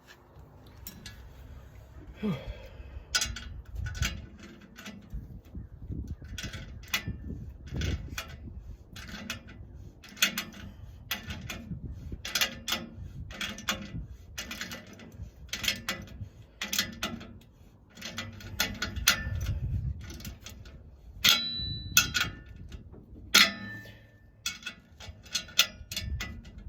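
Irregular metallic clanks and clinks, about one or two a second, from tools and parts knocking against metal while an exhaust tip is being fitted. A couple of strikes near the end ring briefly.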